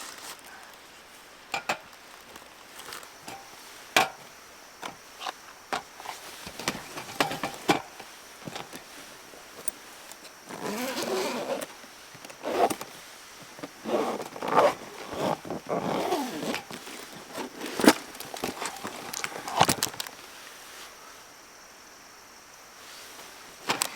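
Handling noises: scattered sharp clicks and knocks, with a denser stretch of rustling and scraping in the middle.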